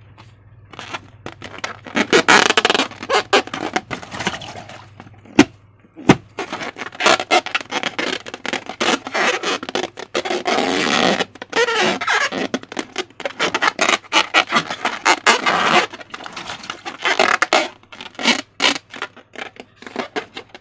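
Slime being worked by hand with a balloon: bursts of sticky crackling and scraping, the longest in the middle, over a faint low hum.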